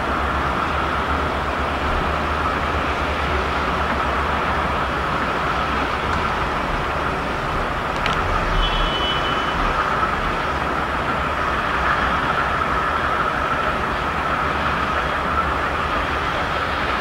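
A passenger train rolls through a large station with a steady running and rolling noise. About eight seconds in there is one sharp click, followed by a brief high tone.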